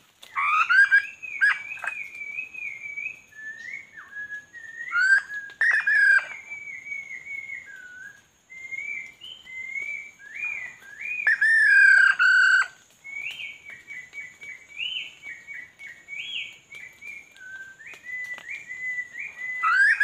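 A bird singing a long, varied series of clear, sliding whistled phrases in bouts with short pauses, over a faint steady high-pitched whine.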